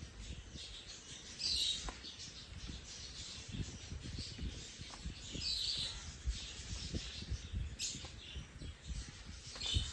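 Short bird chirps, three or so, over a bed of low bumps and rustling.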